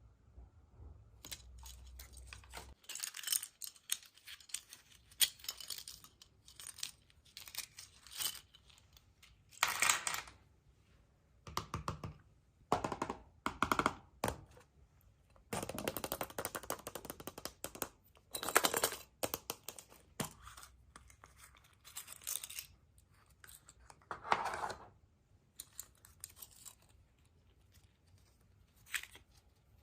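Foil and plastic wrappers crinkling and tearing in short, irregular bursts as surprise eggs are unwrapped, mixed with small clicks and taps of plastic capsules and toy parts being handled.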